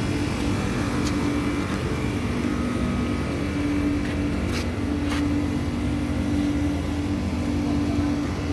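Steady mechanical drone: a low rumble under a constant hum tone, with two short clicks about four and a half and five seconds in.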